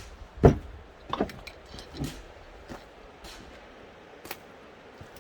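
A few irregular knocks and thumps, the loudest about half a second in, then smaller ones at about one and two seconds, with faint ticks after.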